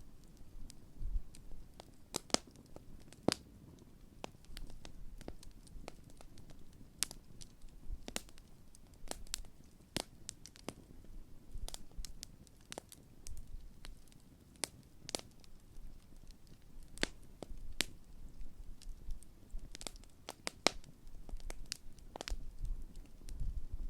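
Large wood campfire burning, its logs crackling with irregular sharp pops several times a second over a low rumble.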